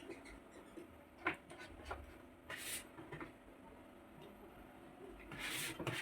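Faint handling sounds of a vinyl sticker being pressed onto an air conditioner's plastic panel: a few light taps and two brief rustling rubs, one a little over halfway and one near the end.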